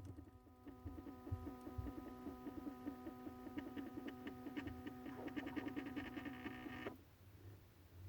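Faint steady hum from a refrigerator's motor, with a fluttering pulse, that cuts off suddenly about seven seconds in.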